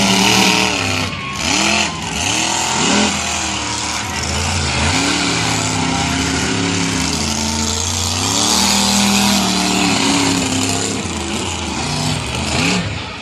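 Monster truck engines revving loudly, their pitch rising and falling again and again over a steady roar of noise.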